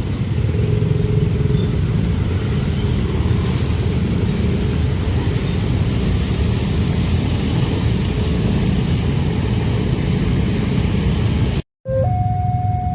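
A train passing at speed over a level crossing: a loud, steady rumble of wheels on rail that cuts off suddenly near the end. Then the crossing's electronic warning alarm sounds, alternating between two tones.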